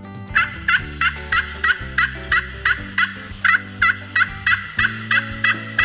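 Turkey gobbling: a rapid, even string of short calls, about three a second.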